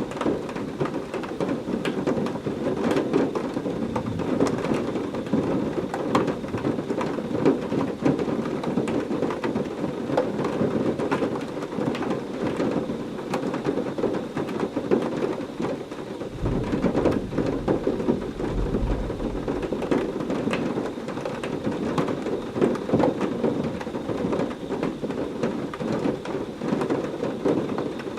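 Heavy rain falling steadily, with many individual drops striking close by. About sixteen seconds in, a low rumble of thunder swells for a few seconds, then fades.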